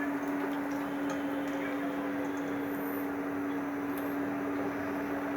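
Breadcrumb-coated rolls shallow-frying in hot oil: a steady sizzle with small scattered crackles, over a steady low hum.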